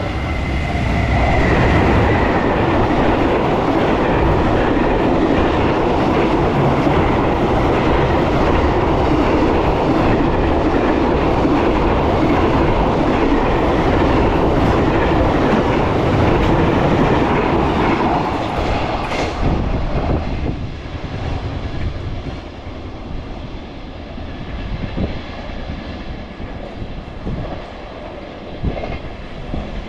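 Electric-locomotive-hauled freight train passing through the station, loud for about eighteen seconds. It then drops away suddenly as the train goes by, leaving a fainter rumble that fades into the distance.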